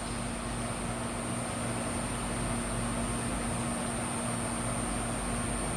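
A Supertec G60A-80 CNC cylindrical grinder running with its 20-inch grinding wheel spinning at speed: a steady machine hum with a thin high whine over a low pulsing drone. The spindle bearings run quietly and the wheel turns smoothly.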